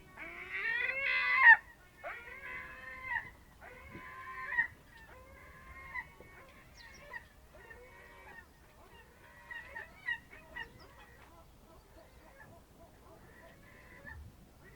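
Birds calling: a run of loud, pitched calls with rising glides in the first second and a half, then calls about once a second that grow fainter and sparser.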